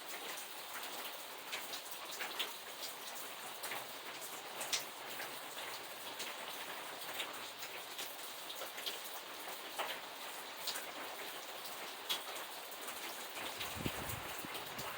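Steady rain falling, a continuous hiss with many individual drops tapping on a surface. A brief low thump comes near the end.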